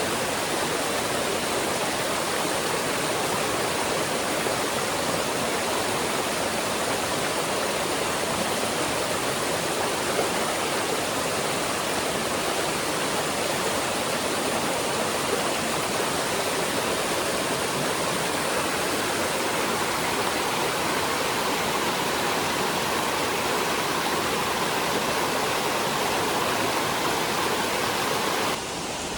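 Steady rush of fast-flowing water. Near the end it steps down a little in level and loses some of its hiss.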